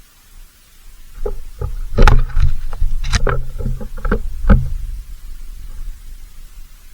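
A quick irregular run of knocks and clicks with heavy low thuds, starting about a second in and stopping about four and a half seconds in.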